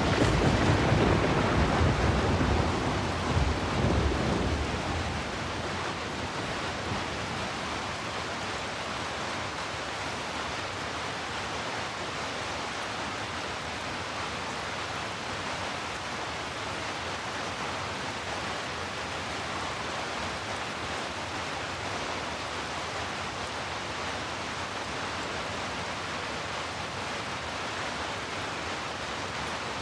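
Heavy rain falling steadily in an even, deep hiss, shaped as brown noise. At the start a louder low rumble of thunder comes in suddenly and fades out about five seconds in.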